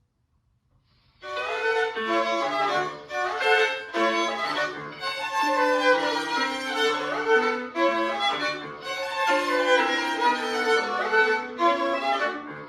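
A violin with piano accompaniment starts playing about a second in, after near silence, and plays on as a continuous run of notes.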